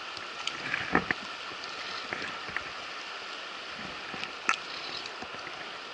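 River water rushing steadily over rocks in fast pocket water, with a couple of sharp knocks from handling, one about a second in and another about four and a half seconds in.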